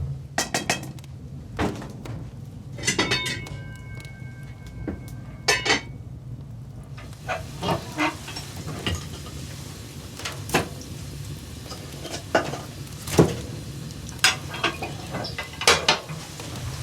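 Metal cookware and utensils clinking and knocking again and again, with one strike a few seconds in leaving a short metallic ring. A faint sizzling hiss comes in about seven seconds in.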